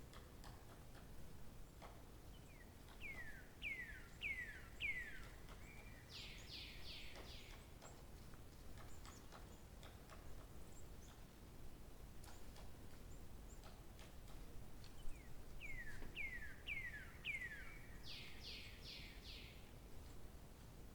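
A songbird singing the same phrase twice, about thirteen seconds apart: four quick down-slurred whistles followed by a short buzzy trill, over faint outdoor background noise.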